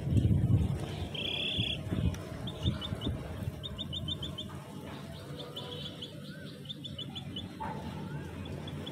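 High bird chirps come in quick runs of four or five short notes, repeated several times, after one longer chirp about a second in. A low rustle and knock of handling is heard at the start.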